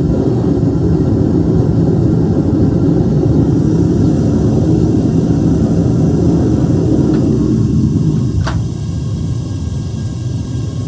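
Home-made metal-melting furnace running with a steady low rumble, easing slightly about eight seconds in.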